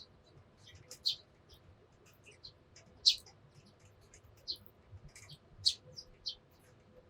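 Eurasian tree sparrows chirping: short, separate high chirps at irregular intervals, the loudest about one, three and nearly six seconds in.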